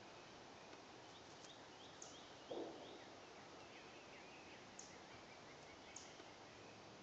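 Quiet woodland ambience with faint, scattered small-bird chirps and short high notes, and one brief low rustle about two and a half seconds in.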